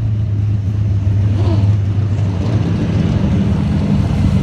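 1970 Chevrolet Camaro Z28's 5.7-litre V8 running at speed, a steady low engine note that grows fuller a little past halfway through.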